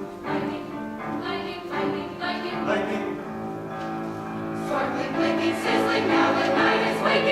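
A choir singing in several parts, holding sustained chords, growing louder in the last couple of seconds.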